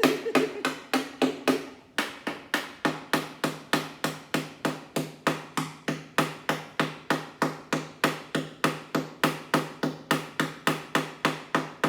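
Hammer blows on the sheet-metal floor panel of a Vespa scooter, a steady run of about four sharp strikes a second with a brief pause about two seconds in, over a steady low hum.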